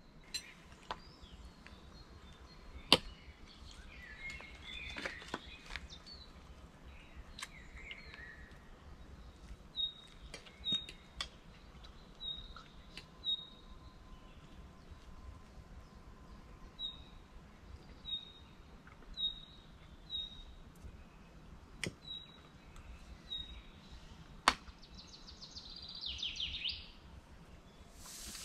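A small bird chirping: short, high notes repeated about once a second over faint outdoor background, with a few sharp clicks. A brief, rougher trill comes near the end.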